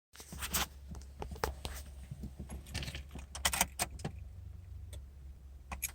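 Car keys jangling, with a run of sharp clicks and jingles. A low steady hum sits underneath.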